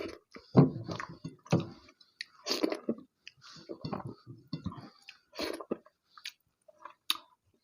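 Close-up eating sounds of rice and curry: wet chewing and mouth noises in irregular bursts, with short pauses between.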